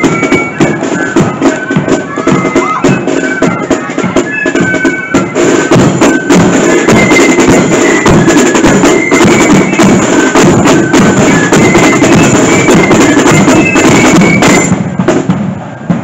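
Marching flute band playing: a high melody on massed flutes over snare and bass drums, the drumming growing denser and louder about a third of the way in, then the band stopping near the end.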